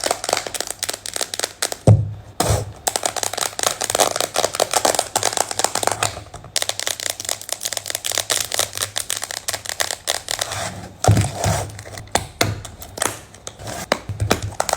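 Long manicured fingernails tapping and scratching quickly on a container, making a dense run of sharp clicks and scrapes. A few heavier knocks come about two seconds in and again later on.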